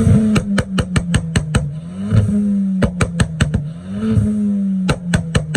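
Car engine held at raised revs through a sports exhaust, with a short blip about every two seconds. Each blip is followed by runs of rapid sharp pops and crackles from the exhaust.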